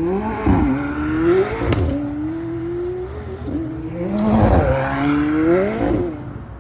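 Car engine accelerating hard through the gears: its pitch climbs, then drops sharply at each upshift, about four times.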